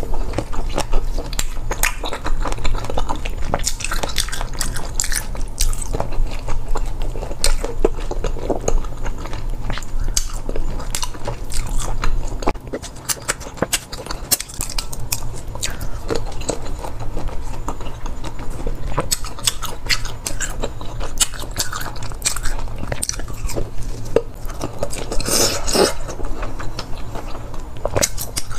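Close-up mouth sounds of biting and chewing boiled silkworm pupae, with many small crisp clicks as the pupae are bitten and chewed.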